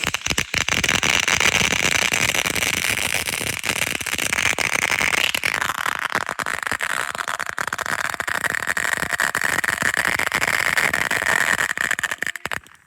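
Firework burning on the ground with a steady loud hiss full of dense crackling; the hiss drops slightly in pitch about halfway through and cuts off near the end.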